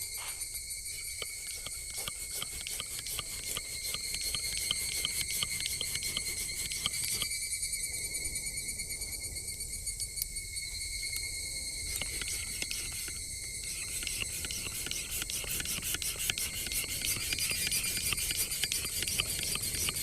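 Insects chirping steadily in several high-pitched layers, with a faint low rumble and scattered light ticks underneath.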